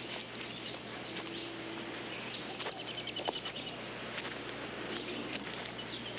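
Outdoor ambience of birds chirping, with a short rapid trill about halfway through, over a steady low hum and hiss.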